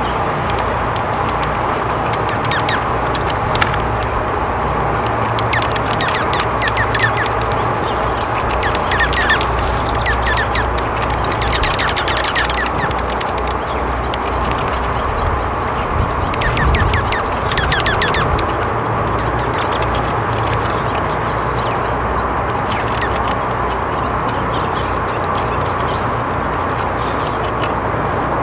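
Wild birds calling over a steady background hiss, with short high chirps several times and bursts of rapid, rattling calls.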